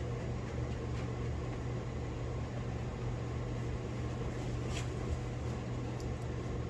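A steady low machine hum with a faint hiss, unchanging throughout, and one small click about five seconds in.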